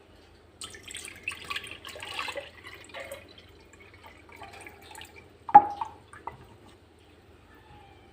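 Water splashing and dripping for about three seconds, then a single sharp knock about halfway through and a lighter one shortly after.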